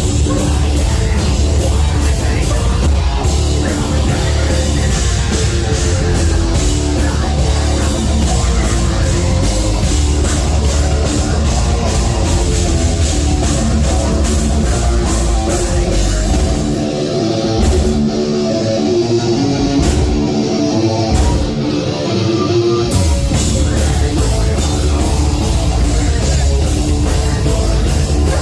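Live heavy metal band playing loud, with distorted guitars, bass and drums. About two-thirds through, the bass, kick drum and cymbals cut out in several short stop-start breaks while the guitars keep going, then the full band comes back in.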